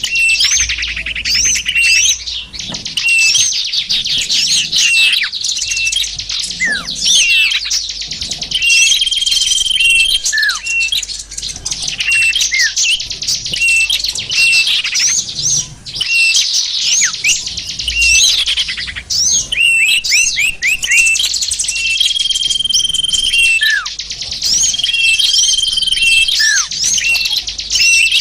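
Bird-lure recording of many small songbirds calling at once: dense overlapping chirps and trills, with held high whistles repeated several times and short downward-sweeping notes.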